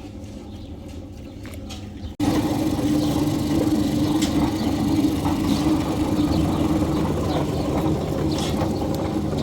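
Engine of the concrete-pouring machinery running steadily; the sound jumps abruptly louder about two seconds in.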